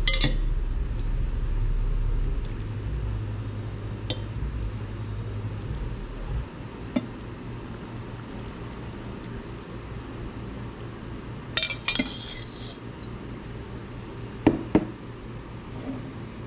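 Glass jars clinking and knocking against each other or a hard surface, a few separate clinks with a small cluster of them about twelve seconds in. A steady low hum underlies the first six seconds and then stops.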